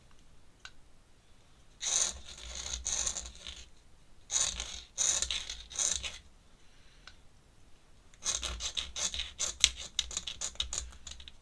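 Pen scratching across sketchbook paper in quick, short strokes as wing feathers are inked, coming in three runs with pauses between.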